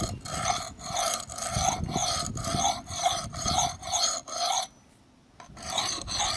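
Steel axe blade ground against a concrete stepping stone to sharpen it: a rhythmic rasping scrape, about two strokes a second. The strokes stop for under a second about five seconds in, then start again.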